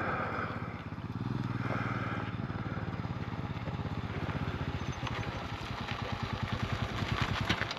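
Royal Enfield Himalayan's single-cylinder engine running steadily under way, its firing pulses coming in an even rapid beat.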